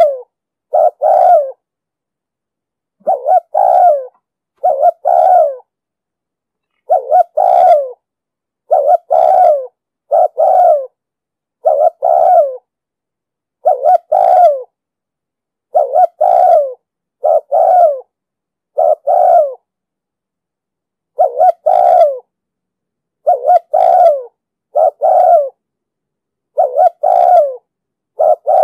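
Spotted dove cooing: short, low coos in pairs, repeated at an even pace with brief silent gaps. It is the rhythmic 'gù' call used as a lure to draw wild doves to traps and to train decoy birds.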